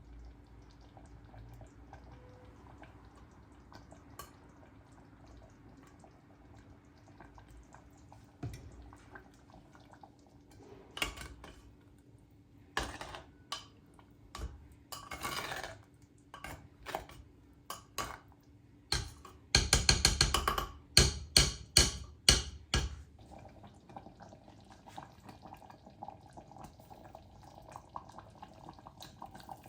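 Kitchen utensils and cookware clinking and knocking in home cooking: scattered light clicks, becoming frequent about a third of the way in, with the loudest run of clattering a little past two-thirds through, then dying down.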